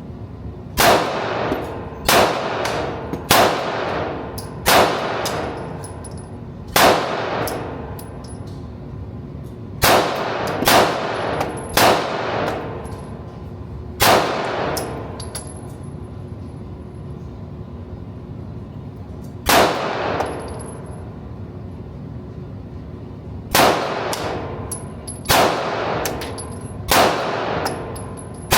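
Series of single gunshots from a firearm at a shooting range, about fourteen at uneven intervals, some in quick pairs and triples and one long gap in the middle. Each shot has a ringing, echoing tail.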